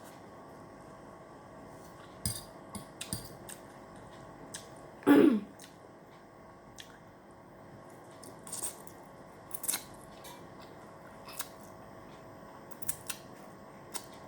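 Eating sounds from instant noodles being eaten close to the microphone: scattered short wet clicks of chewing and mouth smacking, with one louder burst about five seconds in.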